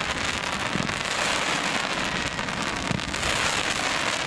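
Dense, continuous crackling of fireworks, a steady hail of tiny pops from crackle effects bursting overhead.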